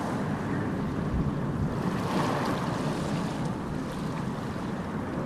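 Sea surf washing onto the beach in a steady rush, with wind rumbling on the microphone.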